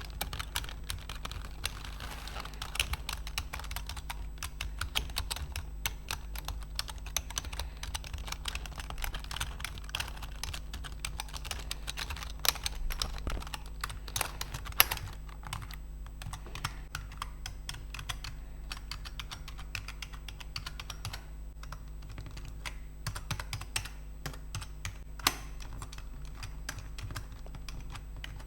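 Computer keyboard keys clicking in quick, irregular succession, as in typing, with a few sharper, louder clacks scattered through.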